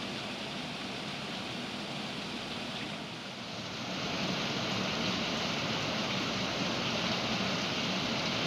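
Heavy rain pouring down in a steady wash, growing louder about four seconds in.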